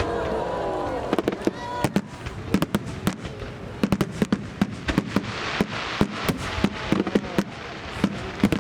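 Aerial fireworks shells bursting in a rapid barrage, with sharp bangs several a second and a hissing crackle that swells around the middle.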